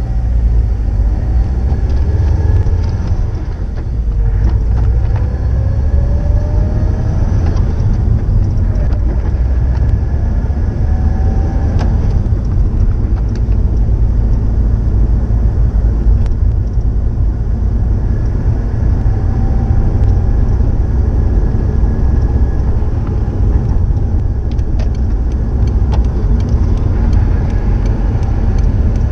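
Subaru Impreza WRX STI (GDB) turbocharged EJ20 flat-four boxer engine running through an STI Genome muffler. The engine note rises in pitch several times as it gains revs.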